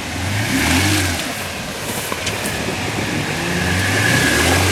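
Off-road SUV engine revving in two surges as the vehicle works its way through deep mud.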